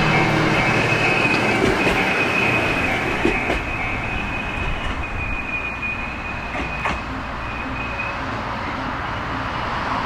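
JNR-type 413/455 series electric multiple unit running through a station without stopping, with a steady rumble and a few sharp clicks from the wheels. A high steady squeal runs over it and fades out about eight seconds in, and the whole sound slowly eases off as the train goes by.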